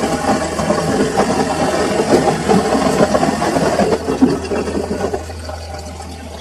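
Samsung washing machine running a full load: the motor hums steadily under the uneven churning and sloshing of wet laundry and water in the turning drum. The churning eases off about five seconds in.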